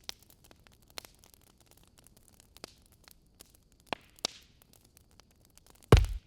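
Wood fire crackling in a fireplace: scattered sharp pops and snaps over a faint hiss, with one short hissing crackle about four seconds in. Near the end comes a single much louder, deeper knock.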